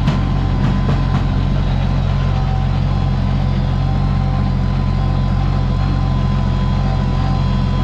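Oliver 880 tractor's gasoline engine running steadily at a constant speed.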